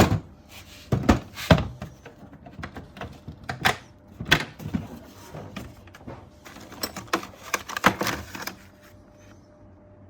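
Scattered clinks and knocks of metal tools being handled while a flywheel puller is set up on a motorcycle engine's magneto rotor: a few sharp knocks in small groups, with short pauses between.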